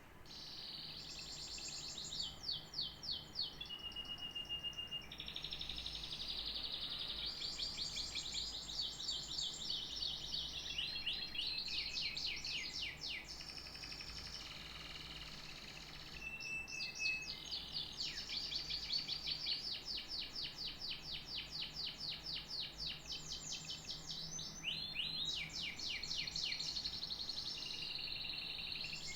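Domestic canary singing a long, almost unbroken song of rapid trills, each a fast run of repeated high notes, with a couple of short steady whistled notes between phrases.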